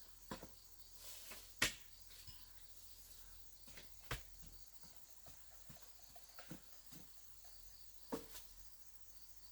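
Scattered faint knocks and taps at irregular intervals, the sharpest about one and a half seconds in and again near the end.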